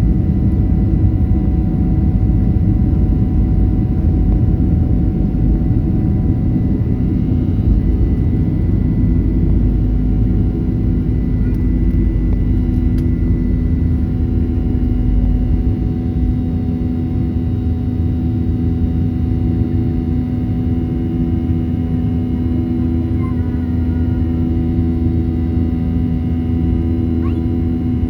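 Cabin noise of a Boeing 737-800 at takeoff: its CFM56 jet engines run steadily at high thrust with a constant whine. A heavy low rumble from the wheels rolling on the runway dies down about halfway through as the aircraft lifts off.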